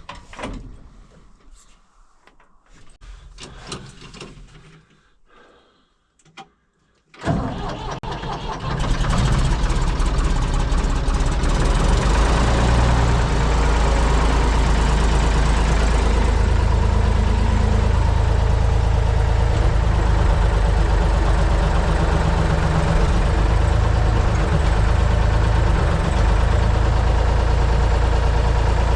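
A few faint clicks and knocks, then about seven seconds in the Ford 555 backhoe loader's engine starts and settles into a loud, steady run.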